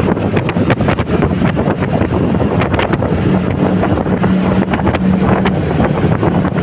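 Wind buffeting the microphone of a riding motorcycle, a loud rushing with crackling gusts, over the motorcycle's engine, whose hum shows faintly in the middle.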